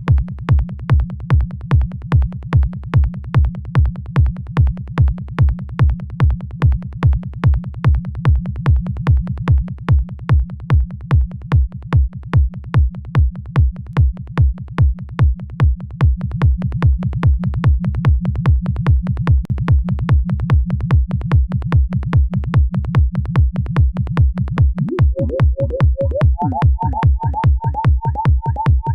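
Electronic dance beat from a software synth: a synthesized kick drum pulsing in a steady fast four-on-the-floor, with a low synth bassline filling the gaps between kicks. The bass gets louder about halfway through, and near the end a higher synth line comes in and steps up in pitch.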